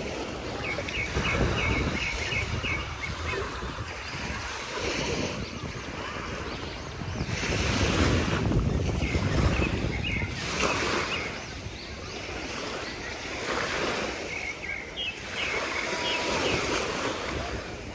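Sea waves washing onto a beach in surges that swell and ebb, the strongest around the middle, with wind buffeting the microphone. A few short runs of faint high chirping notes come through over the surf.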